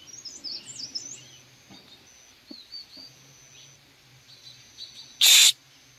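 Birds chirping in quick, pitch-sliding high notes, mostly in the first second and again briefly around the middle. About five seconds in, a short, loud burst of hiss-like noise, the loudest sound.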